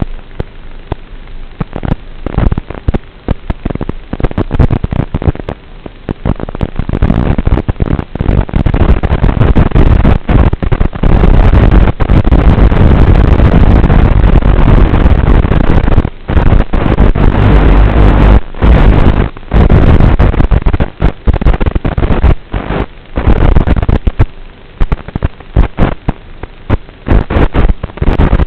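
Loud, harsh static-like hiss with constant crackles and brief dropouts, picked up through the onboard FPV audio of an HPI Savage RC monster truck; it swells about a quarter of the way in and eases off near the end.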